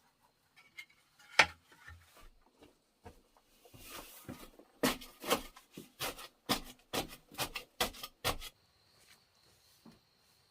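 Sharp knocks on wood as wood is worked by hand. There is one knock about a second in, then a run of about ten quick knocks at roughly three a second. Near the end an insect's steady high buzz sets in.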